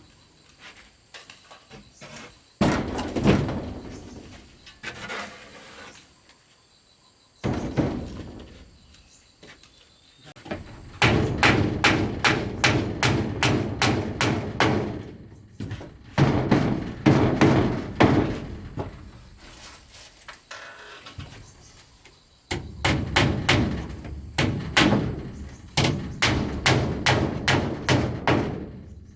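Wood being struck by hand in quick runs of knocks, about three or four a second, in three long bursts with pauses between and a couple of single thuds before them.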